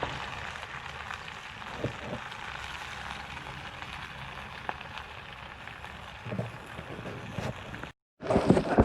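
Steady rain at night: an even hiss with scattered drop taps. Near the end there is a brief break, then a louder jumble of sounds.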